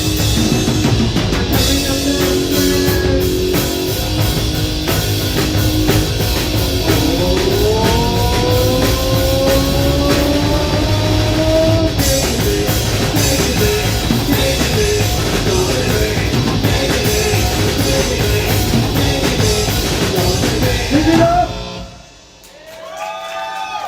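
Live rock band playing loud, with drum kit and guitar. The song stops about two seconds before the end, followed by a short sliding tone.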